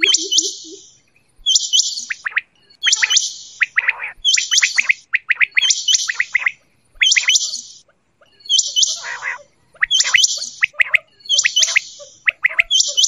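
Quail calling over and over, about one call a second: each a sharp, high-pitched burst with quick notes that drop lower. A low, rapid pulsing fades out in the first second.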